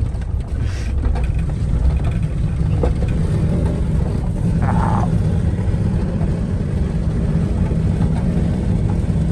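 Chevrolet Silverado pickup's LS V8 running steadily under way, heard from inside the cab as a constant low engine and road rumble. A brief higher-pitched sound cuts in about five seconds in.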